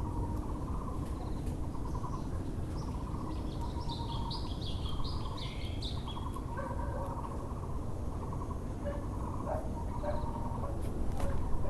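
Muller's barbet (Taiwan barbet) calling with quickly repeated hollow notes. Another small bird sings a short series of high chirps about four to six seconds in. A steady low background hum sits underneath.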